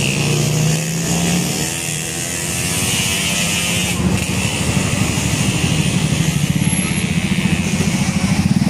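Busy road traffic with a vehicle engine passing close: a steady engine tone at first, then a rapid low pulsing that grows louder over the second half.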